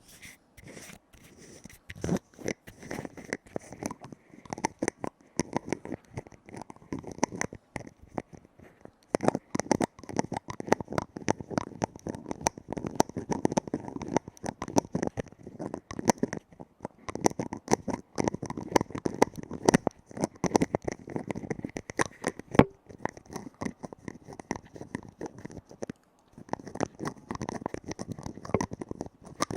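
Rapid tapping on a lid: quick clicks and taps in dense flurries, with short pauses.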